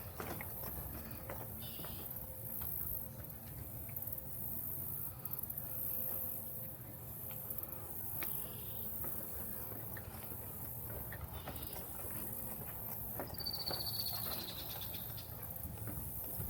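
Footsteps on a trail, with a high, pulsing insect chorus behind them. A short falling bird call comes near the end.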